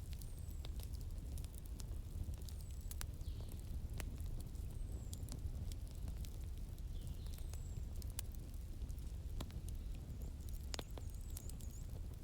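Wood fire crackling with scattered sharp pops over a steady low rumble. Short, high, falling chirps recur every second or two, like a small bird calling.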